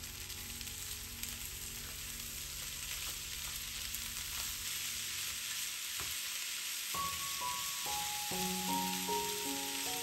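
Pork belly, potatoes and sweet peppers sizzling in a hot frying pan while a spatula stirs them, with faint scraping strokes. Soft piano-like background music comes in about seven seconds in.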